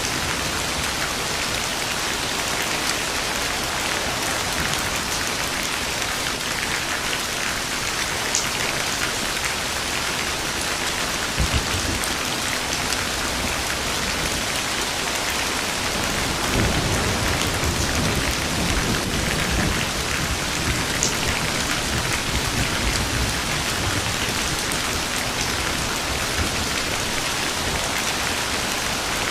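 Steady rain falling, with a short low thump of thunder about a third of the way in and a low thunder rumble starting a little past halfway that lasts a few seconds.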